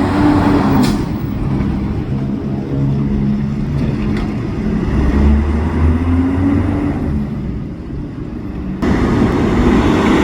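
Heavy diesel truck or bus engine running as it moves, its pitch rising and falling, with a short hiss about a second in. The sound changes abruptly near the end.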